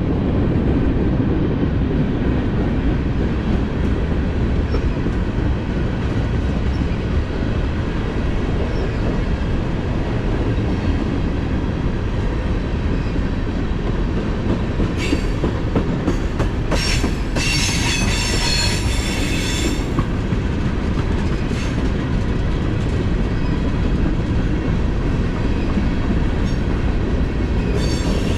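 Freight train cars rolling past with a steady low rumble. Steel wheels squeal high-pitched against the rail for several seconds about halfway through and again near the end, with a few sharp clicks in between.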